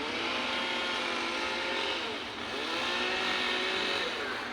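Road traffic: motor vehicle engines accelerating past, their pitch climbing and then levelling off, twice.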